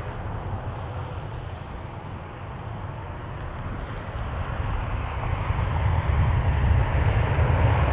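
Jet engines of a Southwest Airlines Boeing 737 at takeoff power on its takeoff roll: a rushing roar with a deep rumble that grows steadily louder over the second half.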